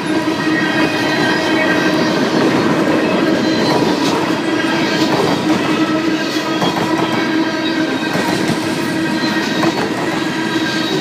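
A CN freight train passing at close range, loud and steady: the rumble of wheels on the rails, with a continuous ringing squeal layered over it.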